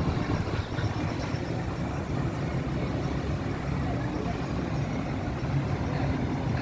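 Scania K440 coach's diesel engine running with a steady low hum.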